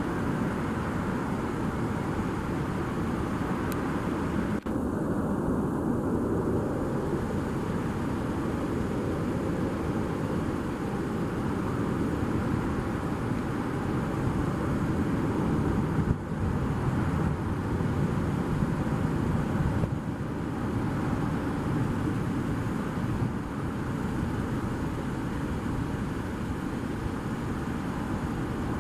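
Jet airliner engine noise: a steady, loud rush with a constant whine, broken a few times by brief cuts.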